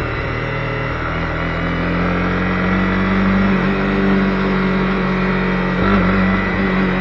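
Honda CB250R's single-cylinder engine running under steady throttle, its pitch rising slightly about two seconds in and shifting again a little past halfway and near the end.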